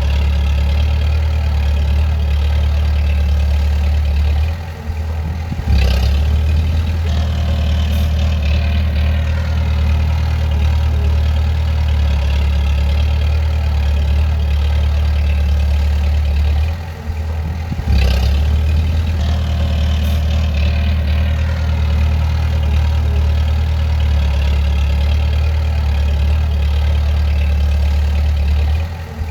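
Bulldozer diesel engine running steadily with a deep, continuous drone. Three times the sound drops for about a second and comes back suddenly: about five seconds in, near seventeen seconds, and just before the end.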